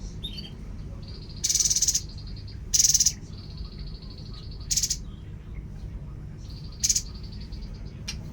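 Tepus babbler calling: four short, harsh buzzing rattles spaced a second or two apart, with a thin, steady high note between them.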